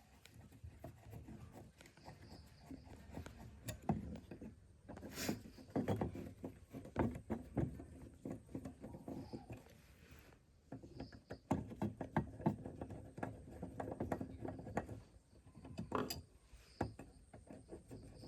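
Irregular bursts of small clicks, taps and scraping from hand work on machine parts, with short pauses between them.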